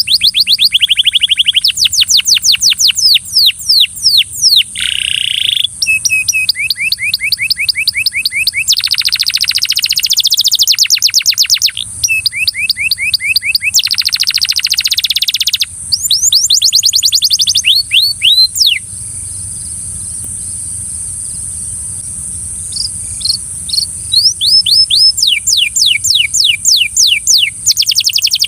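Belgian canary singing: long phrases of rapid repeated notes and quick trills, some notes sweeping down, with a break of a few seconds past the middle before the song resumes. A steady high-pitched hiss runs underneath.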